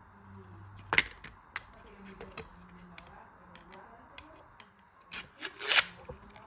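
Sharp clicks and knocks of hard objects being handled, with a loud one about a second in and a quick cluster of them near the end.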